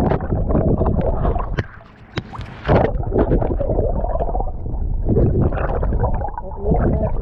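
Water sloshing and gurgling around a kayak, with irregular splashes and a low rumble close to the microphone, dipping quieter briefly about two seconds in.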